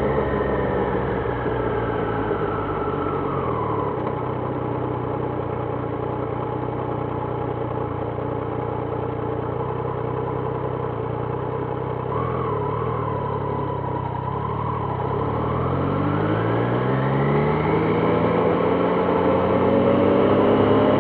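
Triumph Trident 660's inline three-cylinder engine dropping in revs over the first few seconds, then running steadily at low revs. About four-fifths of the way through it revs up again as the bike accelerates.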